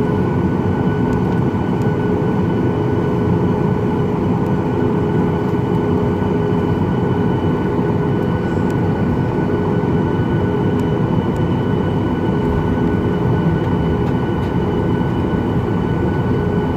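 Steady cabin noise inside a Boeing 737-800 on the ground before takeoff: its CFM56 jet engines running at taxi power, heard as a low rumble with a few constant high tones over it.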